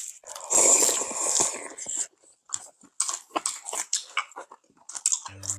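Close-miked crunching and chewing of fresh lettuce wraps (ssam). A loud run of crunches begins about half a second in, followed by a string of smaller crisp crunches and chews.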